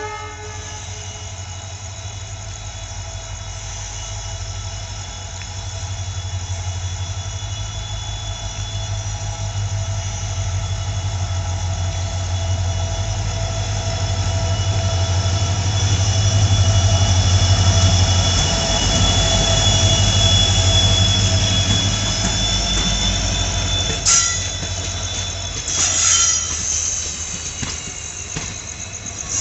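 Passenger train hauled by a WDP4D diesel locomotive running on the rails: a low steady engine drone with high, steady wheel squeal, growing louder to a peak midway and then easing off. Two sharp clanks near the end.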